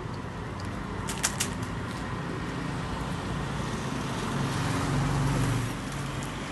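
Steady outdoor background noise with a low hum that swells and fades near the end, and a few short sharp clicks about a second in.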